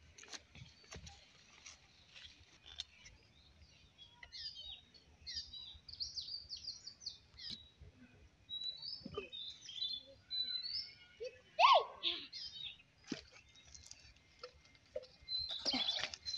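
Small birds chirping in quick, short, high calls, faint and scattered, starting a few seconds in, with a few faint clicks.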